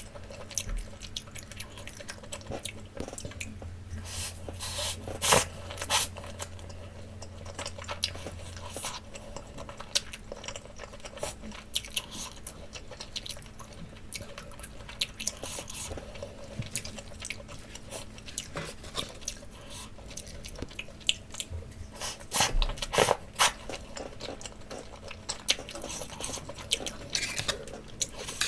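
Close-miked chewing and mouth sounds of a person eating takoyaki: irregular wet clicks and bites, with louder bites about five seconds in and again around twenty-three seconds.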